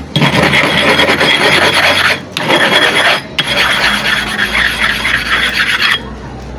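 Hand grinding of a worn, dished super-hard sharpening stone: a loud, rough, continuous rasping scrape in three long bouts with brief breaks, stopping about six seconds in. The stone's surface is being worn down to level out the hollow in its centre.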